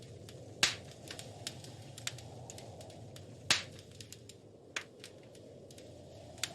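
Wood fire crackling in a fireplace: a steady low rustle of flame with frequent small snaps and two loud pops, about half a second in and again about three and a half seconds in.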